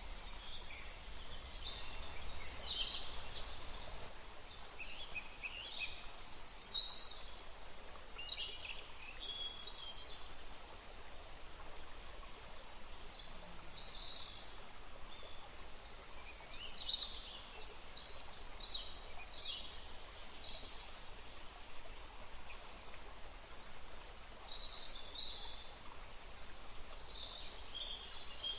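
Several birds calling and chirping in short clusters of high, quick notes, with quieter gaps between them, over a steady rushing background of wind in the trees and flowing water.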